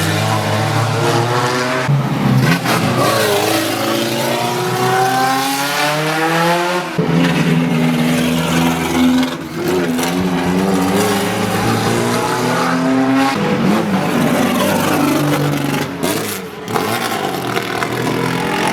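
Car engine revving hard under acceleration. Its pitch climbs steadily, then drops sharply several times, as at upshifts or lifts off the throttle.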